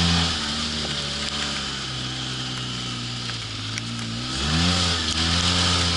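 Polaris RZR 800 side-by-side's engine running on the move: its note drops about half a second in as it eases off, holds low and steady, then climbs again about four and a half seconds in as it accelerates, over a steady hiss.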